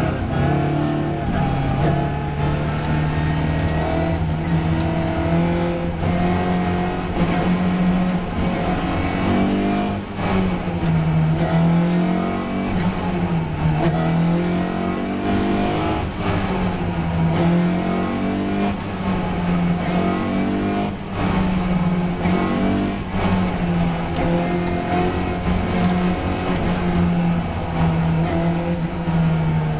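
Racing touring car's engine at full race pace, its note climbing and dropping repeatedly as the driver works through gear changes and braking for corners.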